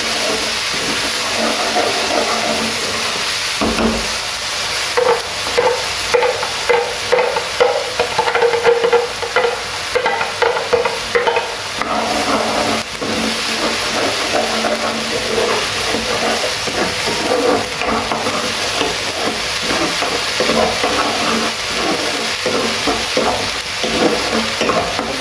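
Ground onion paste frying in hot oil in a nonstick wok, a steady sizzle, with a metal spatula stirring and scraping against the pan, the scrapes coming thick and fast from about five seconds in.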